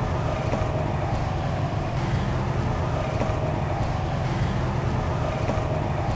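Steady low rumble of city traffic ambience, unbroken throughout.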